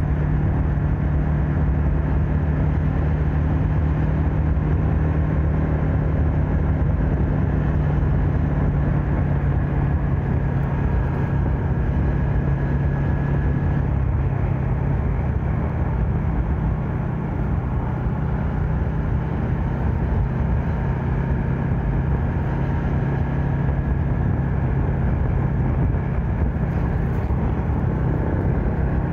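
Yamaha MX King's 150 cc single-cylinder four-stroke engine running at a steady cruising pace, with road and wind noise underneath.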